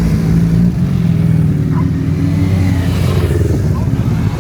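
Motorcycle engine running steadily, a loud, even low drone with a slight rise and fall in pitch midway.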